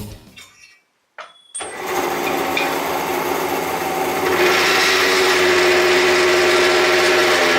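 An electric shop power tool starts with a click and runs steadily with a motor hum. About halfway through its sound grows brighter and louder, then it stops near the end.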